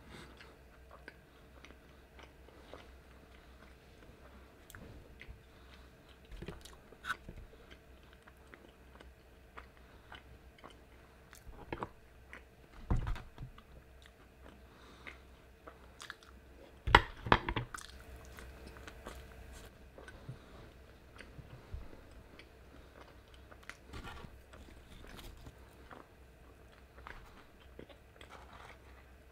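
Close-miked mukbang eating: a person chewing and biting crunchy food. Many small crunches, with louder bursts about 13 seconds in and loudest about 17 seconds in.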